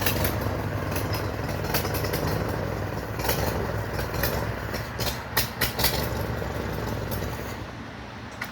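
Farmall H tractor's four-cylinder engine running with a steady low drone, less even after the first couple of seconds, with a few sharp clanks around the middle; it grows quieter near the end.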